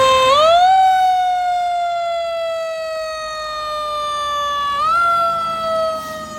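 Fire engine siren winding up to a high pitch, then slowly falling, pushed up again about five seconds in and sliding down once more.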